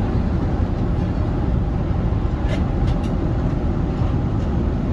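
Steady low rumble of engine and airflow noise inside an Airbus A380 cabin, with a couple of faint clicks about halfway through.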